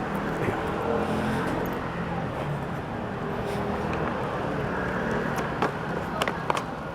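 Roadside traffic noise: a motor vehicle running past with steady street rumble, with a few sharp clicks near the end.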